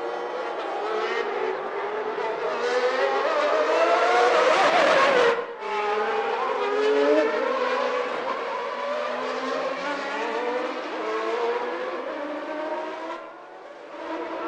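1991 Formula One cars with 3.5-litre naturally aspirated engines running at racing speed, several engine notes rising through the gears. The loudest car builds and then passes by about five seconds in, its note dropping sharply as it goes.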